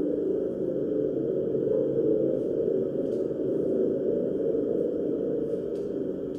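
Sustained, layered ringing drone of sound-bath instruments, many close low tones blending and slowly fading, with a few faint clicks about halfway through and near the end.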